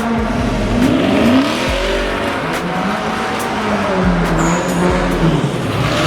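A car engine revving hard, its pitch rising and falling a few times, over the noisy hiss of spinning tyres: a car drifting or doing donuts.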